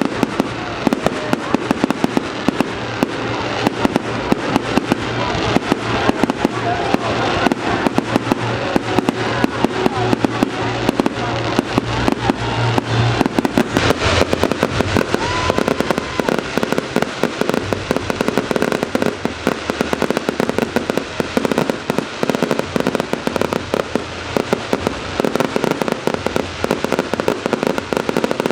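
Fireworks display: a dense, continuous crackle of many fireworks bursting several times a second.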